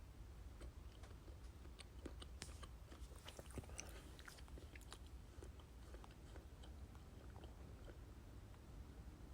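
Near silence: faint room tone with a steady low hum and scattered small clicks, thickest a couple of seconds in.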